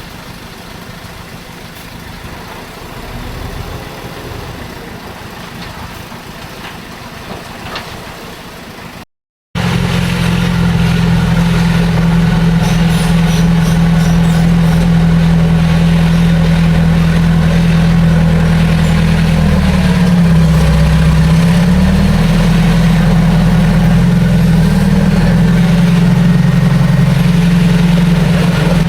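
Heavy diesel engine of earthmoving machinery running loudly and steadily, its pitch dipping briefly once about two-thirds of the way through. Before it, an even rushing noise fills the first nine seconds, ending at a short cut.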